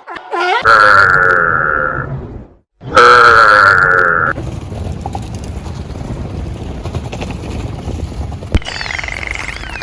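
An animal calling loudly twice, each call about a second and a half long with a low rumble beneath it, followed by a quieter stretch of steady noise.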